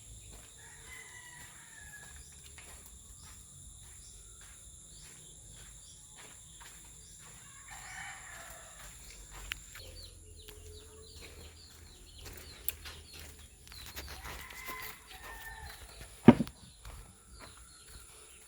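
Chicken calls, a rooster crowing among them, heard three times over a faint steady patter of footsteps, with one sharp knock near the end.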